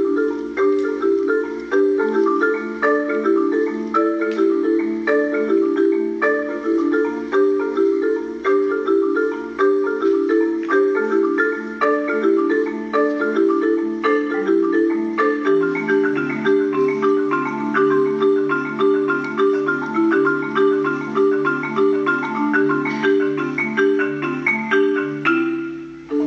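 Solo marimba played with mallets: a fast, steady repeating pattern of low notes under a higher melody line. About halfway through the bass notes step lower, and the sound briefly drops away just before a new phrase starts near the end.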